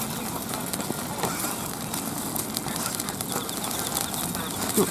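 Food sizzling and crackling as it grills over a small pocket stove, with a short louder sound near the end.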